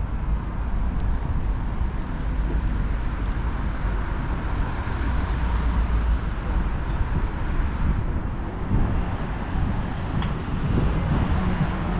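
City street ambience: steady traffic noise with wind buffeting the microphone as a low rumble.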